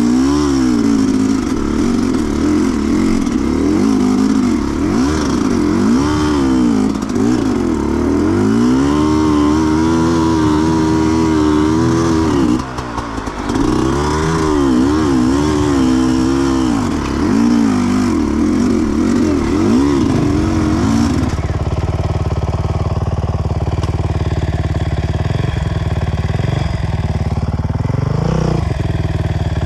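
Sherco 300 two-stroke enduro motorcycle engine heard from the rider's helmet, revving up and down with the throttle for about twenty seconds, with a brief dip near the middle. After that the engine's pitch drops away and a steady low rumble remains.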